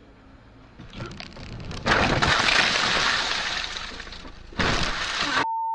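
Car crash: a sudden loud crunching impact with breaking glass about two seconds in, fading over a couple of seconds, then a second burst of crashing noise. A steady electronic beep tone starts just before the end.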